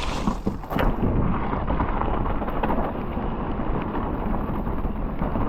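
Mountain bike riding a wet downhill trail in heavy rain: a steady low rumble of wind and rolling tyres on the microphone, with a sharp knock about a second in.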